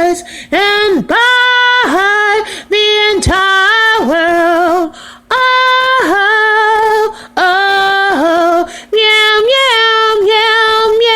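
A woman singing solo without accompaniment: a slow melody of long held notes in short phrases, with brief breaks between them.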